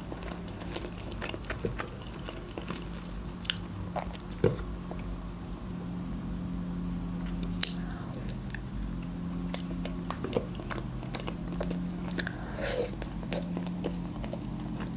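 Close-up chewing and biting of grilled chicken, with scattered sharp wet clicks and smacks from the mouth and the meat, the sharpest about four and a half and seven and a half seconds in. A faint steady low hum runs underneath.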